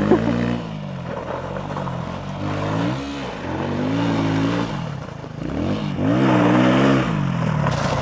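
Motocross bike engine being ridden, revving up and down with the throttle, its pitch rising and falling several times over the few seconds.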